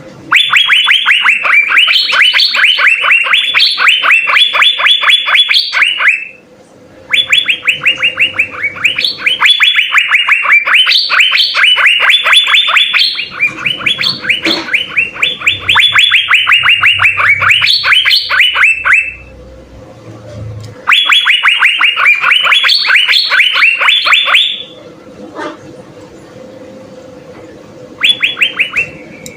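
Asian fairy-bluebird (cucak biru) singing continuously: rapid rattling phrases of sharp, high repeated notes, each phrase lasting several seconds, with short pauses in between and a faint steady hum underneath.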